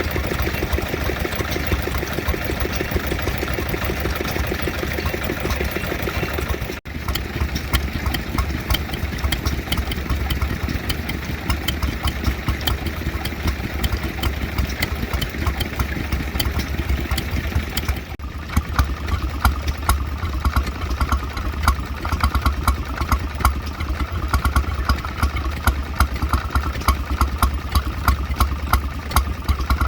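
Vintage stationary oil engines running steadily, each with a regular firing beat. The sound changes abruptly twice, about 7 and 18 seconds in, as one engine gives way to another.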